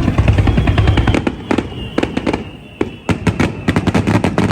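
Fireworks barrage: many shell bursts in rapid succession, with a brief lull a little before three seconds in and then a second dense volley. A thin high whistle runs through the middle.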